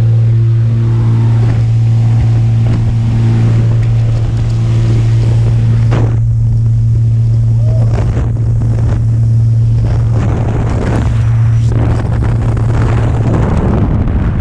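Small jump plane's engine drone, a steady low hum, with wind buffeting the microphone in gusts that grow stronger in the second half.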